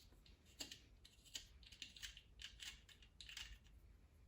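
Faint, irregular metallic clicks and scrapes of a 3/8 tap being turned back out of a freshly threaded hole in a GM LS engine block.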